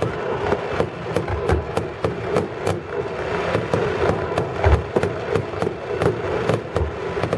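Fireworks display: a rapid stream of sharp crackling reports over a steady rumbling background, with a deeper boom about two-thirds of the way through.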